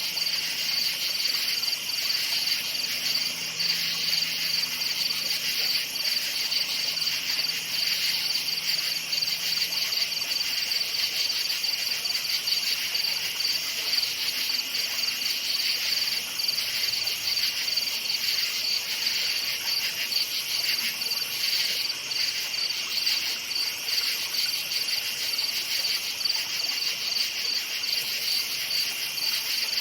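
Many crickets chirping together in a steady, high-pitched chorus of fast pulses.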